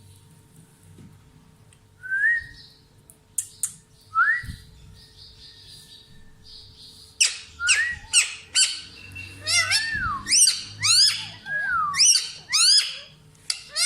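Parrots calling. A couple of single rising chirps come in the first few seconds, with a few sharp clicks between them. From about seven seconds in comes a fast run of loud, harsh squawks, several a second, each call rising and then falling in pitch.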